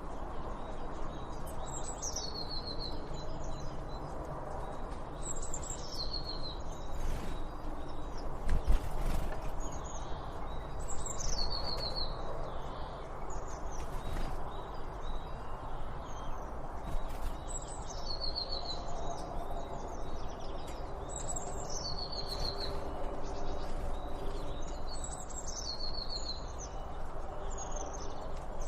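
A songbird repeating the same short song over and over, a high phrase that falls in pitch and ends in a quick trill, every few seconds, over steady low background noise. A brief knock about nine seconds in.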